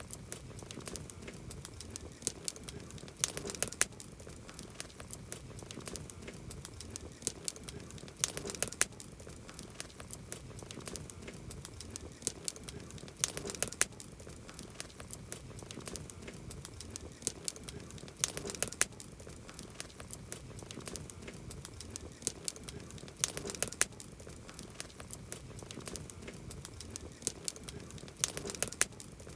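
Wood campfire crackling: many sharp pops and snaps over a soft steady hiss, with a cluster of louder pops about every five seconds.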